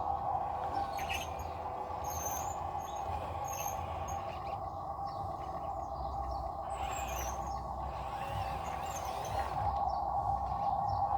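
Short bird chirps now and then over a steady droning hum and a low rumble.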